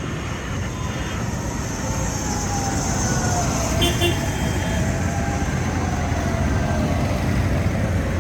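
Tractors driving past with their diesel engines running in a steady low rumble, and a whine that falls in pitch through the middle. A few short high beeps sound about four seconds in.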